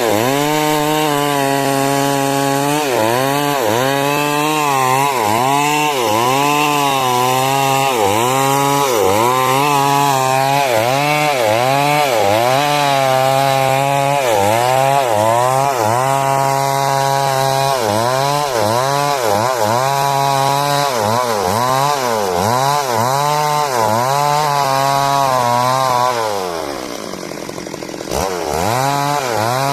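Stihl MS 382 two-stroke chainsaw running near full throttle while cutting wood, its pitch sagging under load and recovering over and over. Near the end it slows to idle for a couple of seconds, then revs up again.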